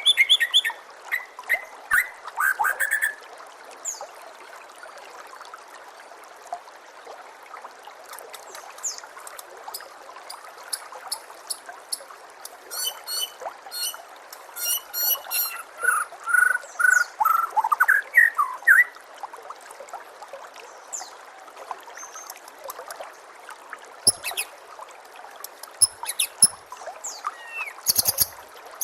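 White-rumped shama singing in scattered phrases: clear whistles and runs of fast, high repeated notes. Under it runs a steady trickle of water.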